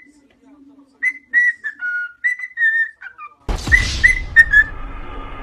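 Parrot whistling a tune in a run of short, clear notes. About three and a half seconds in, a loud rushing noise starts under the whistling.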